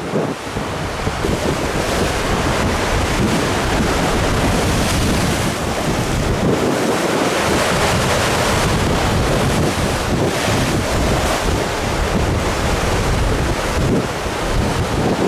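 Strong gale wind buffeting the microphone over waves surging and breaking against the sea rocks, a dense, steady roar without letup.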